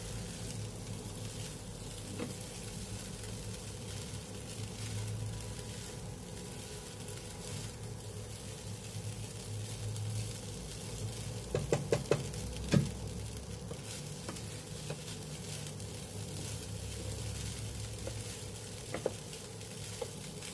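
Fried rice sizzling in a frying pan as a wooden spatula stirs and turns it. A few sharp knocks come a little past halfway, with one more near the end.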